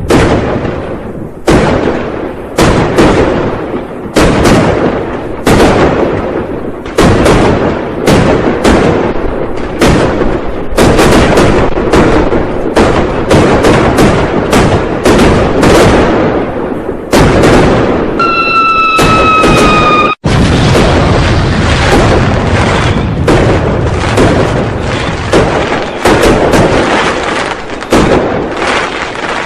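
Dense, unbroken barrage of New Year firecrackers and fireworks, the bangs overlapping one another. About 18 seconds in, a steady high tone that falls slightly sounds over the bangs for about two seconds.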